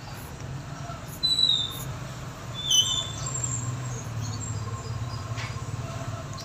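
Steady low rumble of traffic, with two short high-pitched squeaks, one a little after a second in and one near three seconds in, which are the loudest sounds.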